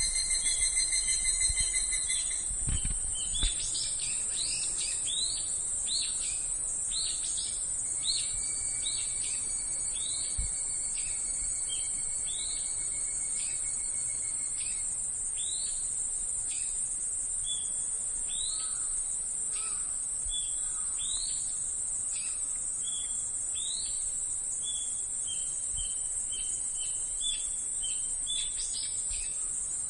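Cicadas' steady high-pitched buzz, with birds calling over it in short, repeated chirps. A louder steady tone stops about two and a half seconds in.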